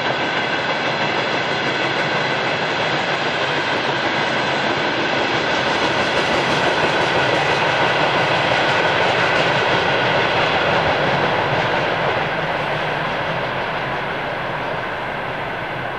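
Wheels of a long freight train of railway tank wagons rolling over the rails, a steady rumble with clickety-clack and a thin high ringing over it. The noise fades over the last few seconds as the end of the train moves away.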